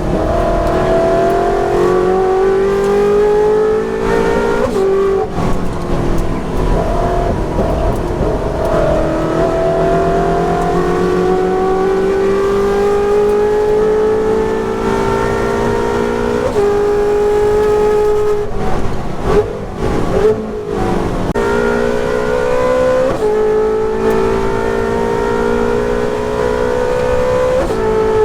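Ferrari 458 Challenge V8 race engine under hard acceleration, its pitch climbing through each gear and dropping back at upshifts about five times. There is a short patch of lifting off and rough running about two-thirds of the way through.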